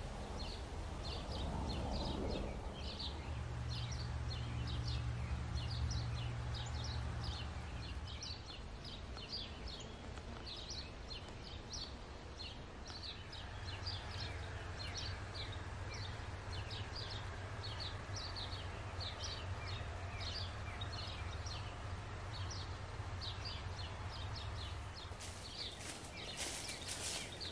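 Birds chirping in woodland: short high calls repeating a couple of times a second over a low steady rumble. Footsteps on the forest floor near the end.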